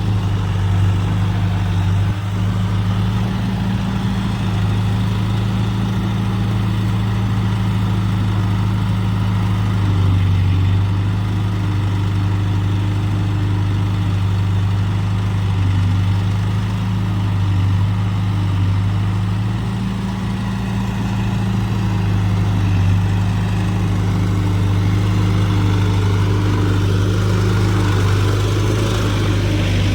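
Heavy diesel engine of a tractor or loader running steadily at low revs with a deep, even drone.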